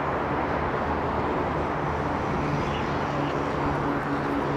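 Approaching freight train locomotive giving a steady droning hum that grows slightly stronger toward the end, over a constant rumble of road traffic.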